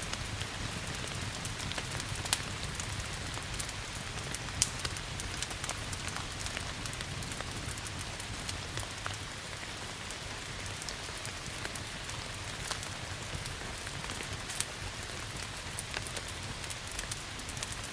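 Steady rain hissing, mixed with scattered sharp crackles and pops from a burning wood fire. Louder pops come about two seconds in, near five seconds, and again late on.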